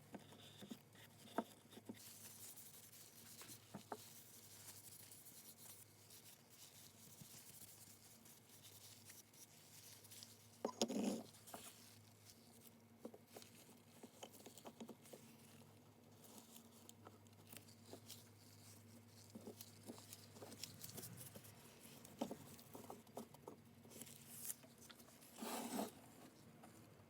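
Faint handling noises: scattered small clicks and taps with two louder knocks, about eleven seconds in and near the end, over a faint steady hum.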